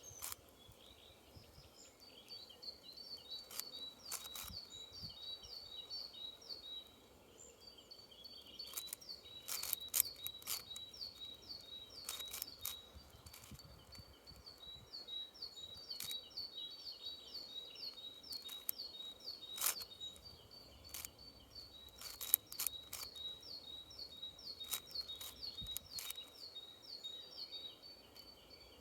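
A songbird chirping in long runs of quick, evenly spaced notes, with a few short pauses. Scattered sharp clicks every few seconds from a 6x6 puzzle cube's plastic layers being turned.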